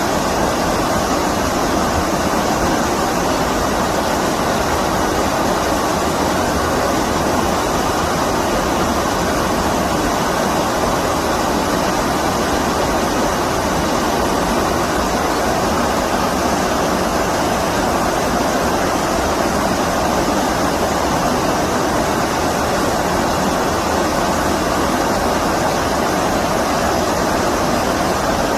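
Stream water rushing steadily, an even unbroken wash of flowing water.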